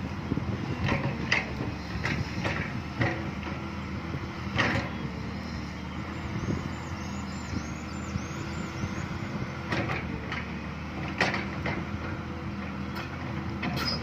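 Excavator's diesel engine running steadily while it works, with sharp metal clanks and knocks every few seconds and a faint high squeal for a few seconds in the middle.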